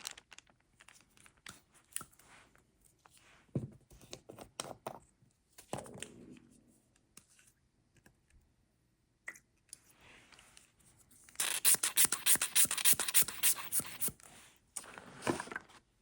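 Broad-nib fountain pen scratching across paper in short, scattered strokes, then about eleven seconds in a few seconds of fast, dense back-and-forth scribbling, and one more short burst near the end.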